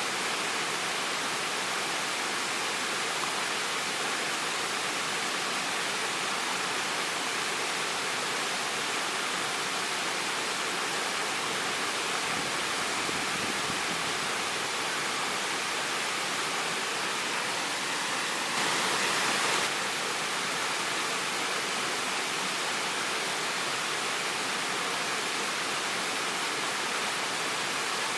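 Waterfall: a steady rush of falling water, with a brief swell lasting about a second about two-thirds of the way through.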